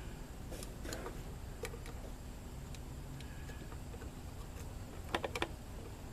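Light plastic clicks and taps from an automotive electrical connector being handled and pushed into place, with a quick run of about four sharper clicks near the end.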